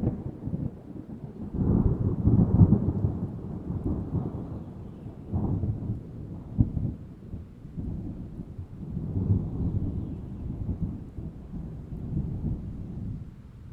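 Thunderstorm: thunder rumbling in several long swells over rain, with one sharper crack about six and a half seconds in, dying down at the end.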